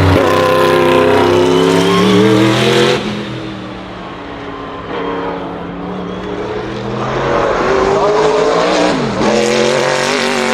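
Sauber Mercedes C9's turbocharged 5.0-litre M119 V8 race engine at full throttle, its pitch climbing for about three seconds before the sound drops away sharply. It grows louder and rises in pitch again in the second half, with a brief dip in pitch near the end before climbing once more.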